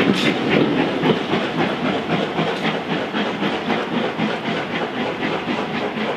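A steam-hauled train's coaches clattering rhythmically over the track as the train pulls away, with a hiss of steam, slowly getting quieter.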